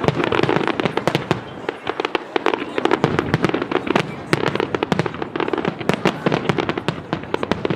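Fireworks exploding in a dense, rapid barrage of bangs and crackling reports.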